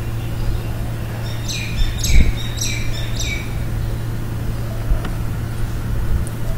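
A small bird chirping four times in quick succession, each note sliding down in pitch, with a low thump in the middle of the calls. A steady low hum runs underneath.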